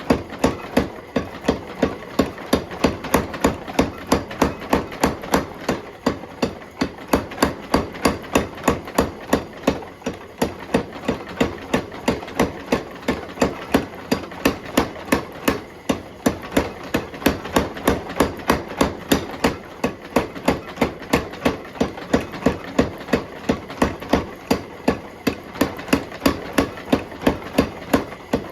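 Steady, rhythmic hammer blows forging a bar of tough alloy steel on an anvil, about two to three strikes a second with a few brief pauses. A steady running noise sits underneath.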